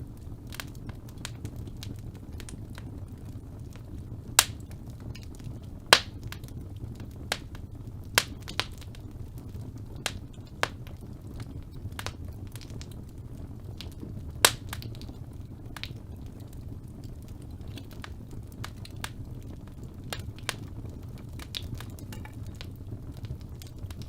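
Wood fire burning in a fireplace: a steady low rumble of flames with irregular crackles and sharp pops from the logs, a few of them much louder than the rest.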